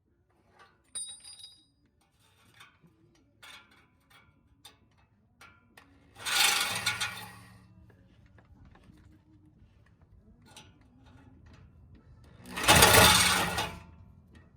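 Angle grinder cutting through the exhaust pipe in two short bursts of about a second and a half each, several seconds apart. Light metallic clinks and taps come before the first burst.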